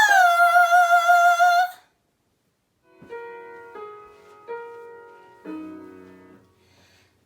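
A girl's singing voice holding a high note with vibrato, sliding down and stopping about two seconds in. After a short silence, a piano plays four chords, each left to die away, as the introduction to the next song.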